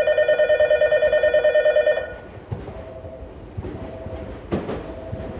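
A loud electronic warning tone pulsing rapidly for about two seconds, then cutting off. A Tokyu 5000 series electric train then approaches, its wheels clicking over rail joints, with the clacks growing louder near the end.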